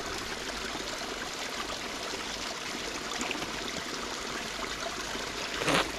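Natural spring water running and trickling steadily. A short, louder burst comes near the end.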